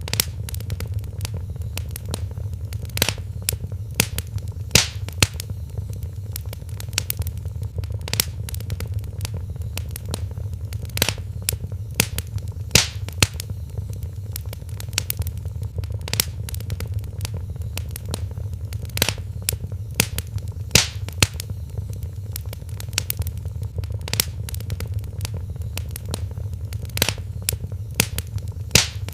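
Wood fire crackling in a fireplace: irregular sharp pops and snaps, several a second with louder ones every few seconds, over a steady low rumble.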